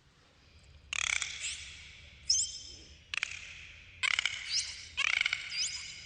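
Dolphins clicking and whistling: four bursts of rapid clicks about a second apart, with three short rising whistles between them.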